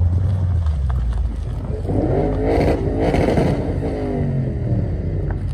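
Tuned 730-hp Audi RS6 Avant (C7) with a Milltek exhaust, its twin-turbo V8 idling and then revved: the pitch climbs about two seconds in, holds near its peak for a second or so, and falls back toward idle near the end.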